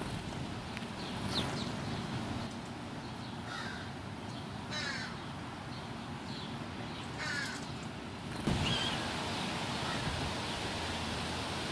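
American crows cawing: several short caws spaced a second or more apart, over steady outdoor background noise.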